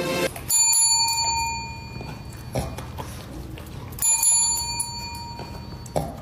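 A small bell rung twice, about three and a half seconds apart, each ring fading slowly.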